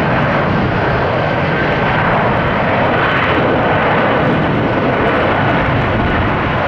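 Boeing 767-300ER jet airliner's engines running loud and steady as it lands, a dense roar with a faint whine on top.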